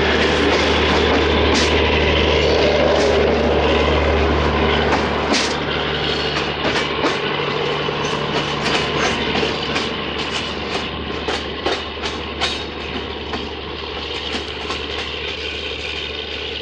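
Diesel-hauled passenger train of LHB coaches rolling past, its wheels clicking over the rail joints, with a steady low diesel engine hum that drops away about five seconds in. The clicking then carries on while the train recedes and the sound slowly fades.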